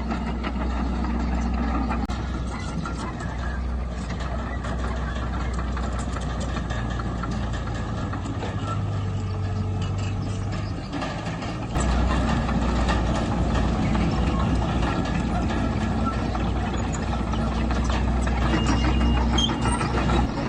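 Diesel engine of heavy earthmoving machinery running steadily. It grows louder and deeper about twelve seconds in, as the machine works harder.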